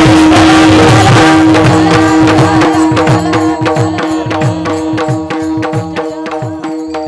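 Kirtan accompaniment: mridang drum strokes and clicking hand cymbals keep a quick, even beat over a held harmonium note. The music fades away over the last few seconds.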